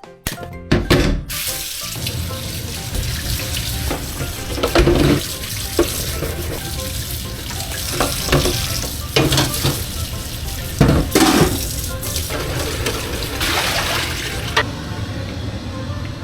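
Water running from a tap into a sink, with dishes clunking as they are washed; the water stops about a second and a half before the end.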